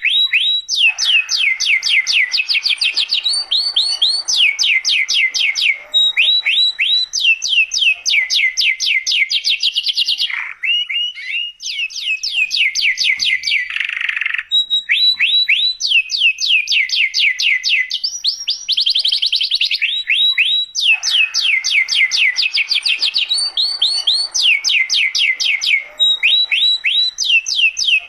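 Domestic canary singing continuously: one fast trill after another, each a rapid run of repeated notes sweeping downward in pitch, with a short, softer change of phrase about ten seconds in.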